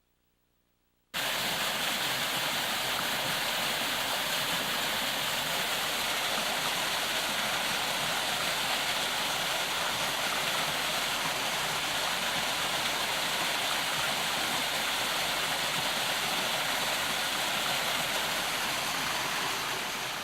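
Waterfall rushing steadily, starting abruptly about a second in and beginning to fade out near the end.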